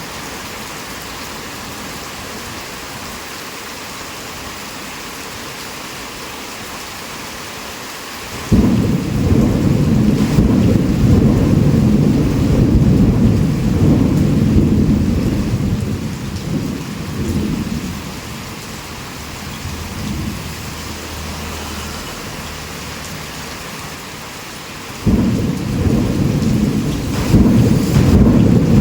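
Heavy rain falling steadily, with a thunder clap about a third of the way in that rolls on for several seconds and dies away, and a second clap of thunder breaking near the end.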